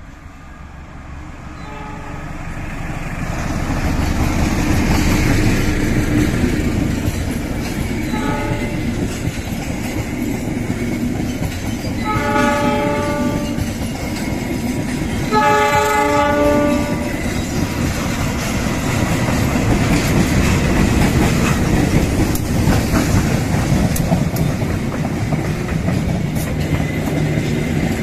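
Diesel-hauled passenger train passing close by, its wheels clattering over the rail joints under a heavy rumble that builds over the first few seconds. Locomotive horns sound several chords: short blasts about 2 and 8 seconds in, then two longer ones around the middle.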